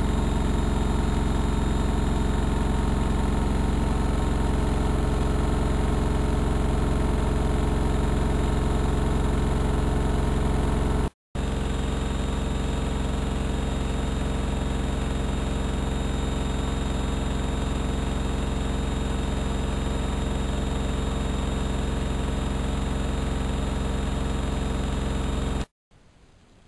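AEG Electrolux Lavamat L6461 washing machine running with a loud, steady hum of constant pitch. It breaks off briefly about eleven seconds in, resumes, and stops near the end.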